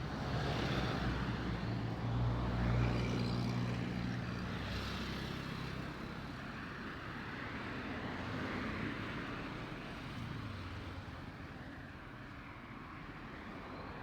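A motor vehicle driving past, its engine hum loudest a few seconds in and then fading into lighter road traffic noise.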